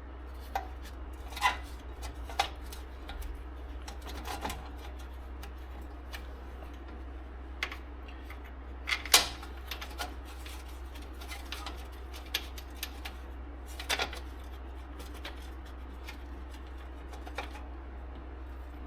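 Scattered metallic clinks and clacks of hand tools and metal parts being handled, the loudest about nine seconds in, over a steady low hum.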